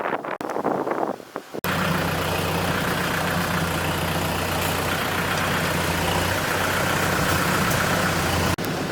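A Kubota tractor's diesel engine running steadily at constant speed, after about a second and a half of uneven, choppy noise at the start.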